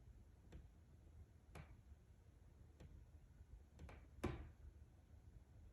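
Faint, sharp clicks from inside a house wall, about six at uneven intervals, with a quick double click and the loudest click near the end. The cause of the clicking is unknown.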